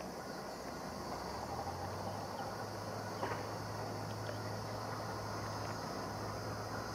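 Steady high-pitched chirring of insects, with the low steady drone of a distant diesel locomotive engine coming in about two seconds in as the train approaches.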